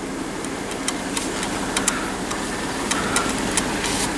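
Chrysler Sebring's engine running with its air-conditioning fan blowing, heard inside the cabin as the car creeps slowly, with irregular sharp clicks and crackles over the steady hum.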